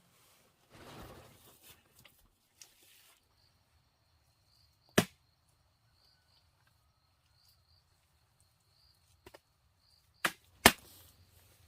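Sharp single chopping strikes into wood: one about five seconds in, then two close together near the end. A faint, steady high tone runs underneath from about three seconds in.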